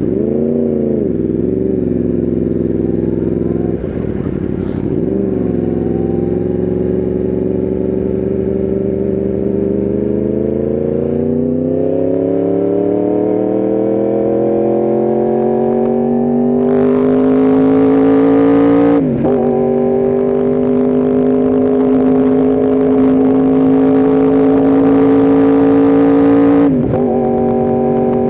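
Yamaha R1M's crossplane inline-four engine under way. A few short rises and falls in revs at first, then a long pull with rising pitch. Two upshifts, about 19 s in and near the end, each drop the pitch suddenly, with a rushing hiss over the engine once speed builds.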